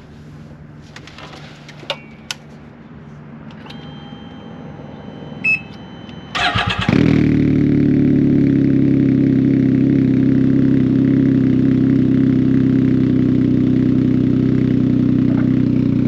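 Can-Am Ryker 900's three-cylinder engine, fitted with a Two Brothers Racing S1R slip-on exhaust, being started. After a few faint clicks, the starter cranks briefly about six seconds in and the engine catches, then idles steadily and loudly through the aftermarket slip-on.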